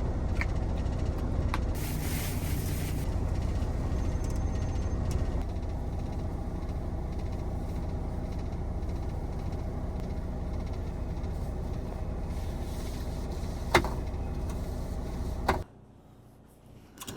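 Steady low rumble of an idling semi truck, heard from inside the cab. A couple of sharp clicks come near the end, and then the sound cuts off abruptly.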